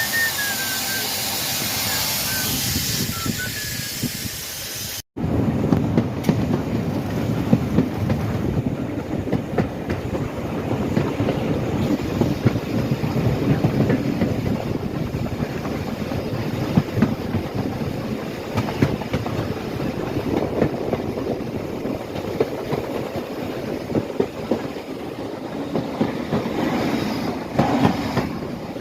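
A steady hiss for about the first five seconds, cut off abruptly, then a railway train running along the track: a rumble with many wheel clicks over the rail joints.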